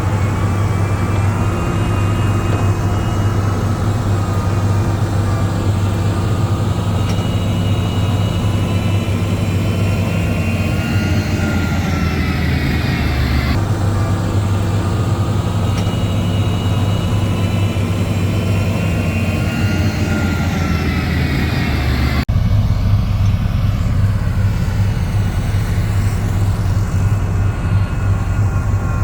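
Heavy diesel engine of earthmoving machinery, a grader or bulldozer, running steadily with a deep hum and some slow rises and falls in pitch. The sound changes abruptly twice.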